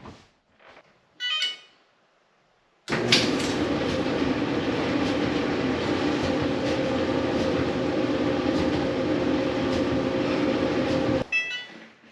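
Electrolux clothes dryer started from its control panel with a short beep; about three seconds in the drum and blower start and run steadily for about eight seconds, then stop abruptly with another beep. The drum turns without the knocking that brought it in for repair, now on new drum support rollers and a new blower wheel.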